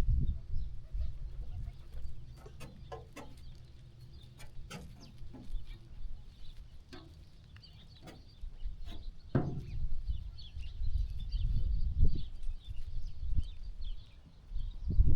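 Sheep farm ambience: scattered sharp clicks and rustles of sheep moving and grazing, with a few low rumbling bumps.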